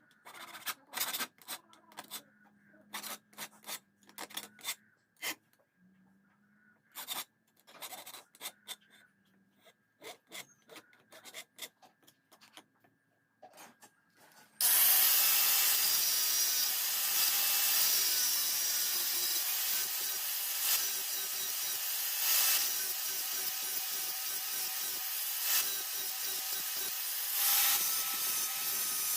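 Scattered short scraping and knocking strokes of hand work on a workpiece. About halfway in, a power tool starts suddenly and runs steadily with a loud, even hissing grind.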